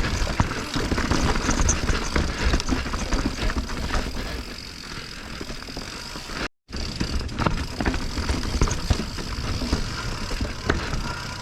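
Mountain bike riding down a rocky technical trail: tyres on rock and dirt under a steady rush of noise, with frequent knocks and rattles from the bike taking hits. The sound cuts out for a moment just past halfway, then picks up again.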